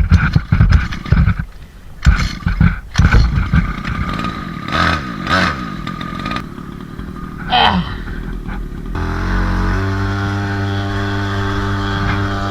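Small 50cc two-stroke engine on a kick scooter, running unevenly with sharp revs rising and falling in bursts for most of the stretch, then settling to a steady idle near the end.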